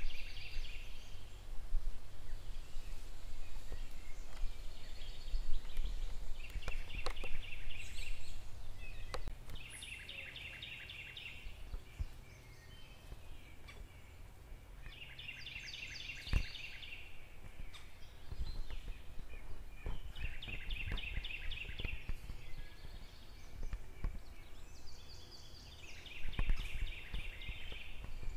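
A bird singing a short, rapid trill of about a second, repeated every few seconds, over a low outdoor rumble with scattered soft knocks.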